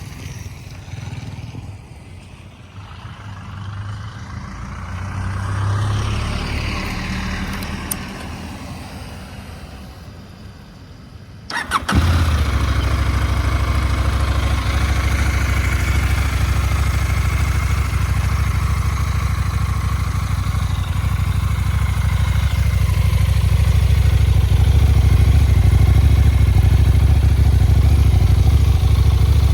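KTM 990 Duke's V-twin engine on its stock exhaust, cranked and catching about twelve seconds in, then idling steadily, a little louder near the end. Before the start there is only quieter low rumbling background noise that rises and falls.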